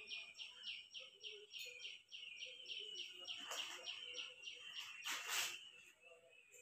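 A small bird calling in a fast run of descending chirps, about five a second, which stops about four and a half seconds in. Two short rustling bursts come at about three and a half and five seconds in, the second one louder, as sliced onions are tipped into hot oil in an iron kadai and moved about.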